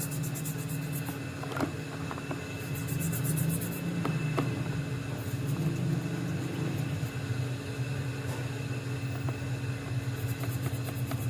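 An electric power tool's motor running steadily with a low hum, with a few faint ticks.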